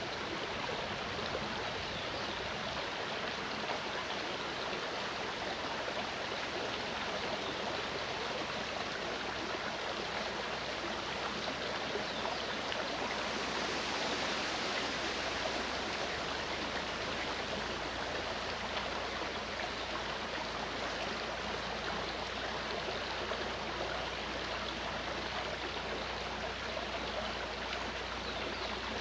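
Clear mountain stream flowing: steady rushing, babbling water that swells slightly about halfway through.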